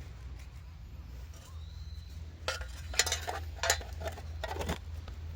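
A quick cluster of light clicks and clinks, as of hard objects being handled, starting about halfway through, over a steady low rumble.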